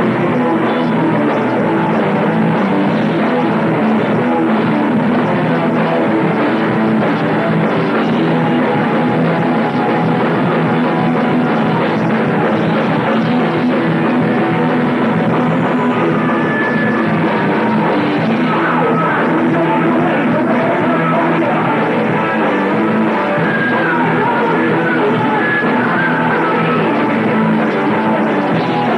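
A heavy metal band playing loud and without a break at a rehearsal, with electric guitars, bass and drums. The recording is a lo-fi bootleg: muddy, with little deep bass and dull highs.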